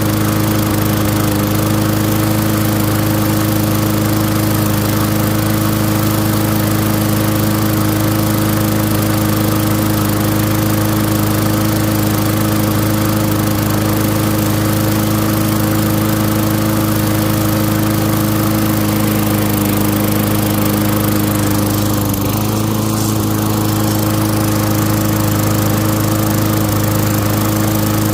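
Craftsman lawn mower's single-cylinder Tecumseh engine running steadily at a constant speed, briefly dipping in speed once near the end. It is a long-unused engine on its first run after being brought back to life.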